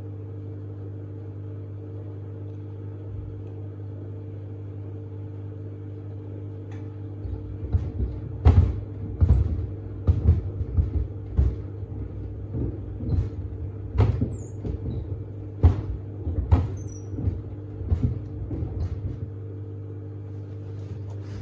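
Samsung WD70T4047CE front-loading washer-dryer running a wash cycle with a steady motor hum. From about seven seconds in come dull thumps, roughly one a second, as the sneakers in the drum tumble and knock against it; they die away near the end.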